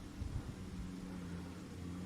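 Vehicle engine running steadily at low revs with a low hum, and a brief low bump in the first half second.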